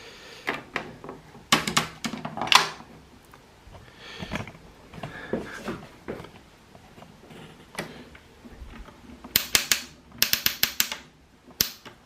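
Plastic clicks and knocks from a Klein toy Miele washing machine being handled, its parts clicking in several quick runs of sharp clicks with short gaps between.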